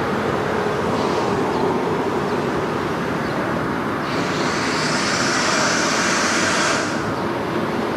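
Steady rumbling noise of a vehicle, with a brighter hiss that sets in about halfway through and cuts off about three seconds later.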